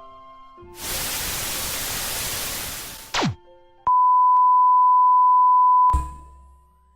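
A sequence of electronic audio test signals: a burst of white-noise hiss for about two seconds, a quick downward pitch sweep, then a steady 1 kHz test-tone beep for about two seconds, cut off by a low thump with a short fading hum.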